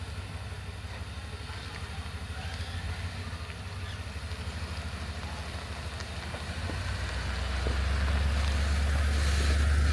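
Pickup truck driving, a steady low rumble of engine and road noise that grows louder about seven seconds in.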